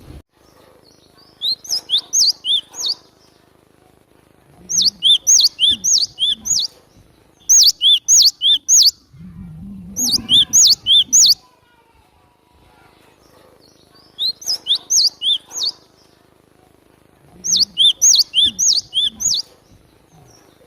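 Cinereous tit (glatik batu) singing: six quick bursts of repeated sharp, high notes, each lasting about a second and a half, separated by short pauses.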